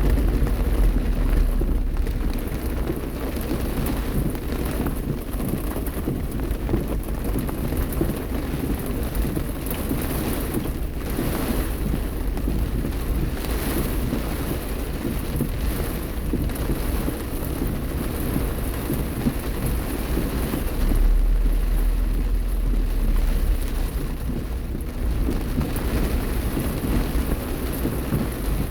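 Heavy rain in a thunderstorm, with low rumbles of thunder underneath that swell near the start and again about three-quarters of the way through.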